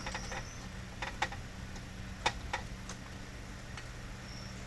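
Scattered sharp clicks and light taps of small metal carburetor parts being handled while the pinned screw that holds the accelerator pump linkage is fitted. An insect trills faintly at the very start and again near the end.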